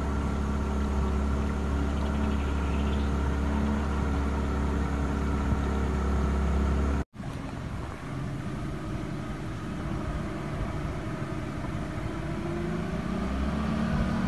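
Small boat's engine running steadily. About seven seconds in the sound cuts off abruptly, then an engine runs again a little quieter, its pitch rising near the end.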